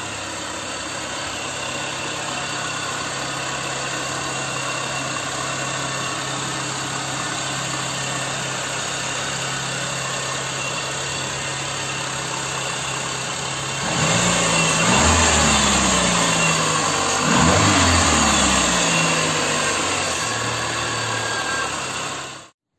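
Car engine idling steadily, then revved up and back down twice in quick succession before it cuts off abruptly.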